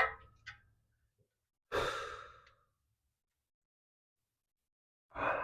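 A man sighing out loud breaths of effort, once about two seconds in and again near the end, while straining to work loose a stubborn spark plug.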